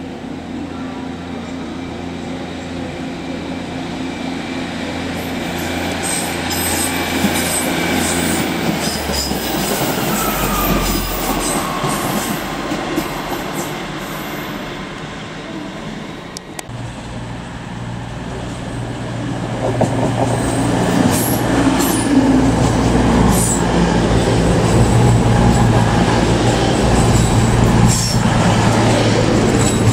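Northern Class 150 diesel multiple unit running past with engine drone and wheels on the rails, getting louder, with a falling wheel squeal partway through. About halfway in, a CrossCountry Class 220 Voyager diesel train runs past close by, louder and steady.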